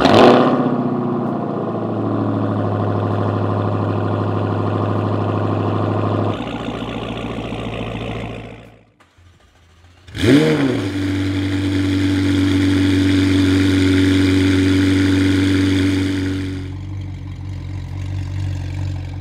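Dodge Challenger SRT Hellcat's supercharged 6.2-litre V8 cold-starting with a loud flare, then running at a high cold idle that steps down about six seconds in and fades out. About ten seconds in, a McLaren 720S's twin-turbo 4.0-litre V8 cold-starts with a quick rev flare, holds a high cold idle, and settles to a lower, quieter idle near the end.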